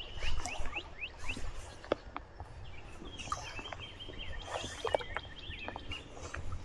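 A songbird singing: a quick run of short sliding chirps near the start, then more chirps over a held note in the middle. Scattered sharp clicks and a low steady rumble sit underneath.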